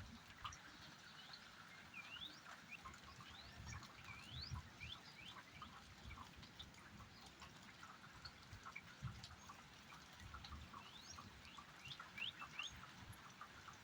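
Faint rain with scattered drops ticking. Many short, rising chirps sound through it, in quick runs at times.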